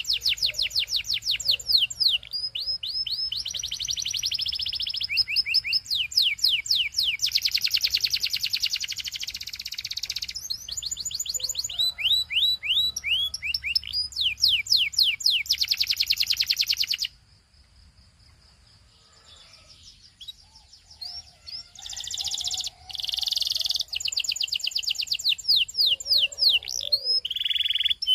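Canary singing long trills of fast, rapidly repeated high notes, switching from one repeated phrase to the next every second or two. The song breaks off for a few seconds past the middle, then starts again.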